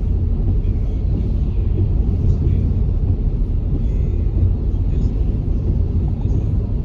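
A car driving at steady speed: a continuous low rumble of engine and road noise.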